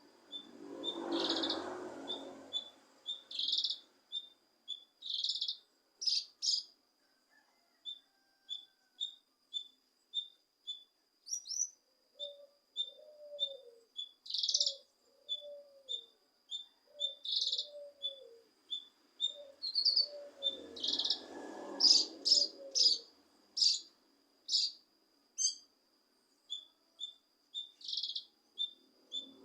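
Cucak kinoi songbird calling: a regular run of short, high chirps about twice a second, broken by louder clusters of sharp notes and harsh scratchy bursts, over a steady high-pitched whine.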